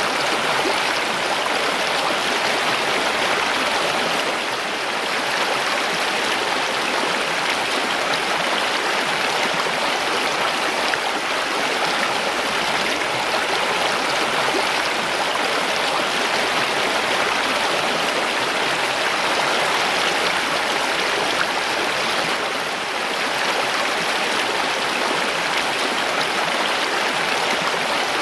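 Mountain stream running over rocks, a steady even rush of water.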